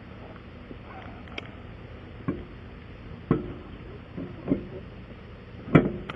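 Sharp metallic clanks and knocks from hand tools and wheel hardware during a roadside tire change: about five irregular hits, some ringing briefly, the loudest near the end, over a steady low background noise.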